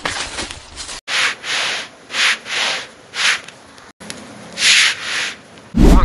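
Broom sweeping: about six brisk swishing strokes of stiff bristles scraping over sandy, gritty ground, followed near the end by a heavy low thump.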